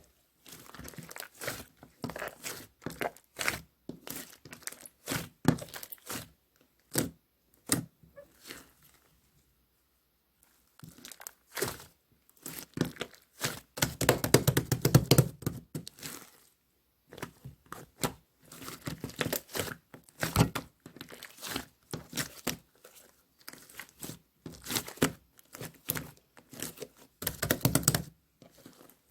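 Slime being squished and pressed by hand, making irregular sticky crackles and pops, with a brief pause a third of the way in and denser runs of crackling about halfway through and near the end.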